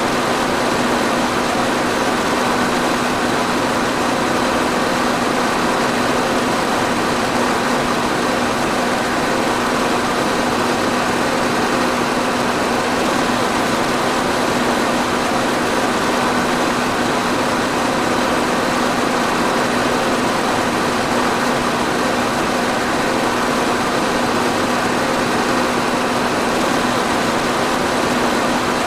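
Electric fan running steadily: an even rush of air over a constant motor hum, with no change in speed.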